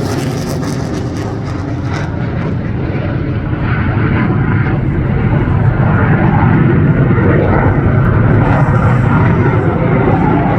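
CF-18 Hornet fighter jet's twin General Electric F404 turbofan engines, a dense jet roar that swells steadily louder through the middle of the pass.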